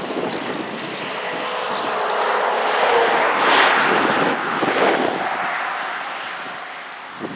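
A motor vehicle passing by: engine and tyre noise swells to a peak about three and a half seconds in, then fades away.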